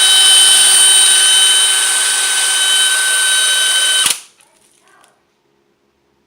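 A small power tool runs steadily at high speed with a high whine, grinding out the old valve-stem packing of a Hoffman #7 steam radiator valve, then cuts off about four seconds in.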